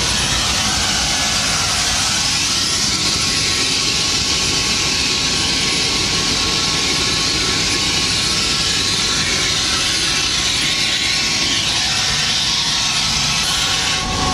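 Sightseeing helicopter in flight, heard from aboard: a loud, steady din of rotor and engine noise with a strong hiss, cutting in suddenly at the start.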